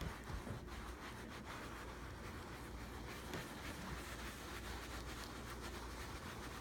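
Faint, steady rubbing of a sponge working mink oil into a scratch on leather.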